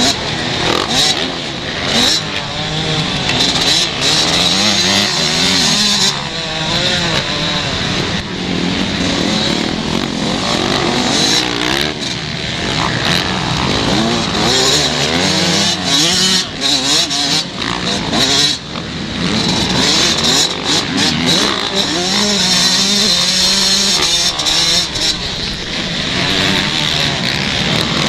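Several 125 motocross bikes racing, their engines revving up and dropping back again and again, overlapping one another.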